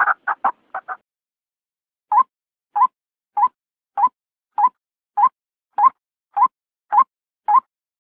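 White-breasted waterhen lure call: a few fading notes at the start, a short pause, then from about two seconds in an even run of short single notes, each with a slight upward lift, about three every two seconds.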